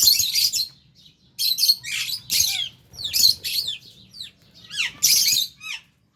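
Flock of lovebirds calling: bursts of shrill, harsh chirps and squawks from several birds at once, in four or five bouts with short pauses between.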